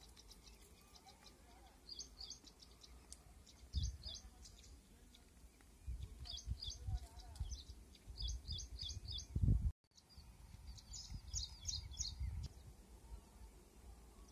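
A small bird chirping in four quick runs of short, high chirps, over uneven low rumbling bursts that are loudest just before a sudden cut near the middle.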